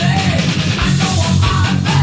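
Heavy-metal rhythm guitar: a high-gain, distorted Ibanez RG550 through a Fender Tone Master Pro preset built on a Marshall JCM800 amp model, double-tracked left and right. It plays a tight chugging riff over a backing track.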